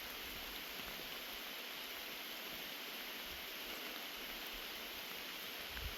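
Steady rain falling, an even hiss that holds unchanged.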